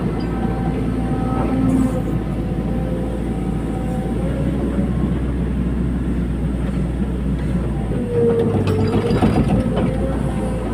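Caterpillar 320D hydraulic excavator at work: the diesel engine runs steadily with a hydraulic whine, and a run of metallic clanks comes about eight seconds in.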